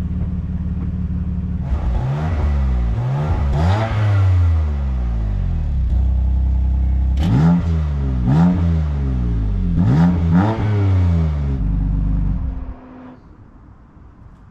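BMW M4 Competition's 3.0-litre twin-turbo inline-six with sports exhaust, idling and then revved in a run of quick throttle blips, each rising and falling in pitch, with a few sharp exhaust cracks among the second group. Near the end the engine sound drops away sharply.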